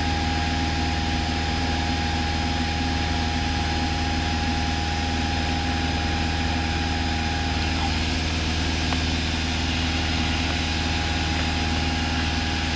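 Cessna 172's piston engine running steadily at low power, a constant hum in the cockpit, heard through the headset and intercom feed.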